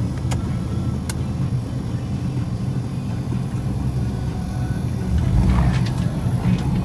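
Suzuki Escudo's engine running steadily as the SUV drives, with two sharp clicks about a second in and a louder surge with crackling around five seconds in.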